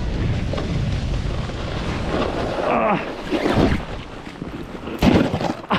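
Wind buffeting the camera microphone in a steady low rumble, breaking up after about three seconds, with a sharp knock about five seconds in.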